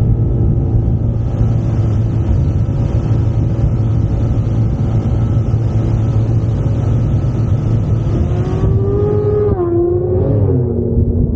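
Yamaha SMAX 155 scooter's single-cylinder engine running under way, with a heavy rumble of wind on the microphone. Near the end the engine note rises briefly, then drops in steps as the throttle is eased.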